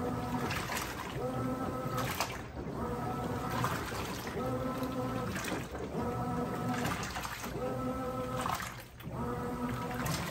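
Brastemp 17 kg top-loading washing machine agitating a load in water: the motor hums in short runs, starting and stopping about every second and a half, with water sloshing in the tub.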